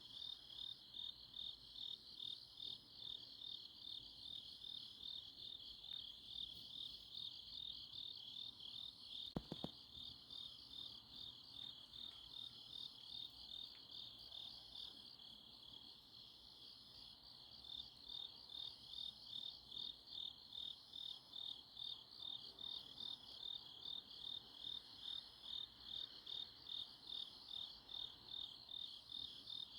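Autumn night chorus of crickets and other grass insects, a steady high-pitched chirping that pulses about twice a second, with a fainter, higher call repeating about once a second. A brief double click about nine and a half seconds in.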